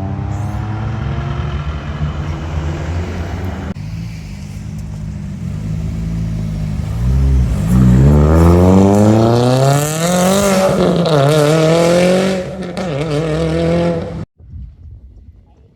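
Car engine running low and steady, then revving up as the car accelerates away, its pitch climbing for about three seconds, wavering, then falling off. The sound cuts off abruptly about a second and a half before the end.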